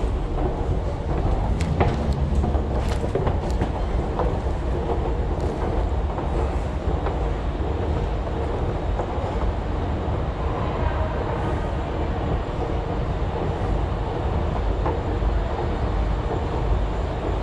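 Train running on the rails: a steady low rumble with a few faint clicks.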